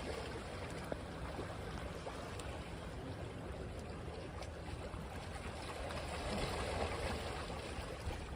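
Waves washing onto a beach, a steady wash of surf that swells a little about six seconds in.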